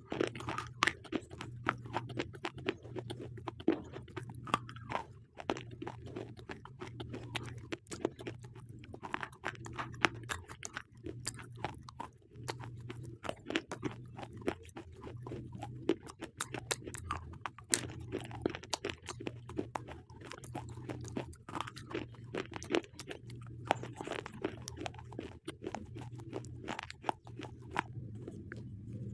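Close-miked chewing of slate pencils: a dense, irregular run of sharp, brittle crunches and crackles as the chalky sticks are bitten and ground between the teeth.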